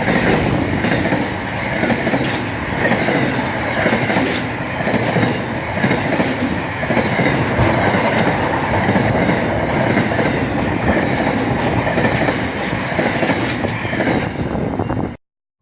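Train running on rails, its wheels clicking over the rail joints amid a loud, steady rumble. The sound cuts off abruptly near the end.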